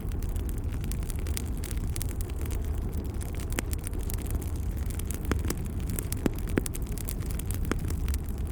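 Fire crackling in a fireplace: a steady low rumble of burning, with frequent small crackles and several louder, sharper pops scattered through.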